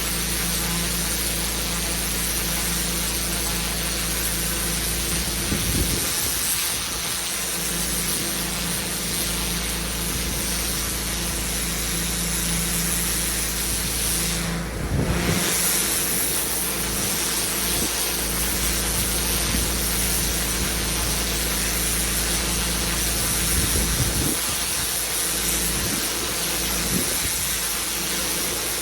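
Pressure washer running steadily, its engine hum under the hiss of the high-pressure water spray. The engine note briefly changes three times, about 6, 15 and 24 seconds in.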